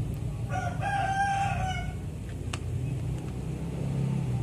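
A rooster crows once, a drawn-out call of about a second and a half that rises slightly and falls away, over a low steady hum.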